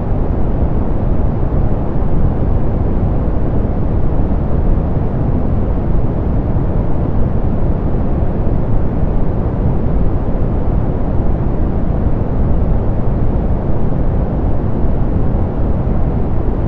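Steady synthetic pink noise, filtered soft so that it is deep and rumbly with little hiss, unchanging throughout.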